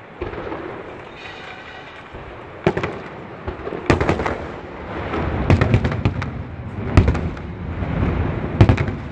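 Aerial fireworks display: several sharp bangs of shells bursting, with a rumbling crackle between them that grows denser from about halfway through.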